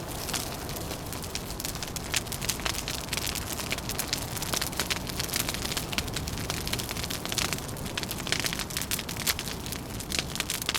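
Wood fire crackling, with dense, irregular sharp pops and snaps over a steady low rushing bed.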